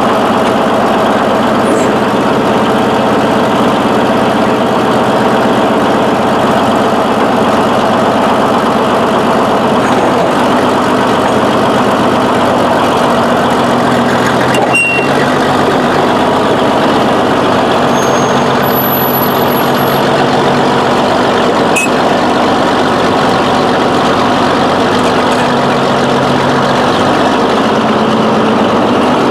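A heavy engine idling steadily at an even speed, with a couple of brief clicks partway through.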